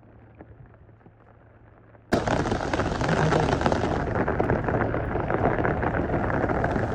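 Heavy rain noise that starts suddenly about two seconds in, after a faint quiet stretch, and then keeps up a loud, even rushing hiss with fine crackle.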